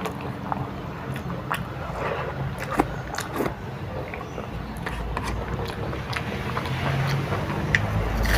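Close-up eating sounds: scattered wet mouth clicks and chewing of someone eating dal and rice, over a low steady background hum.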